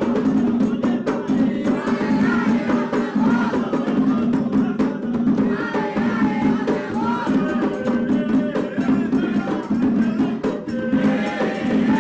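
Candomblé music for Oxum: drums and rattling percussion keep up a steady beat under group singing of a chant.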